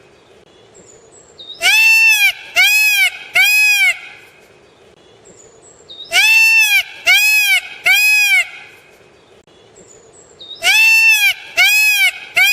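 Goat bleating: sets of three short calls, each rising then falling in pitch, with the same set repeated three times about four seconds apart.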